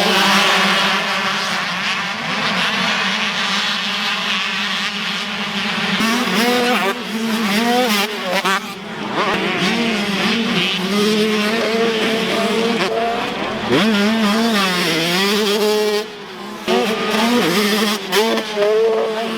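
Several motocross dirt bike engines racing, their pitch rising and falling over and over as the riders rev through the gears and back off around the track.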